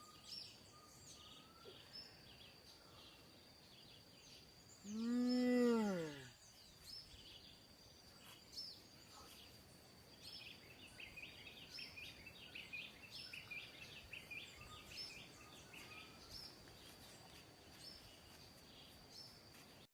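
Dawn forest ambience: many birds chirping over a steady high-pitched insect drone. About five seconds in, one loud drawn-out call rises and falls in pitch over roughly a second.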